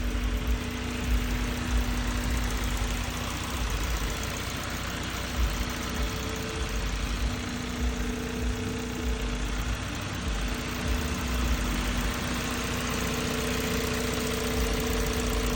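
Honda Civic EM2's four-cylinder engine idling steadily with a steady hum, run at idle to burp air out of the cooling system after a new thermostat has been fitted.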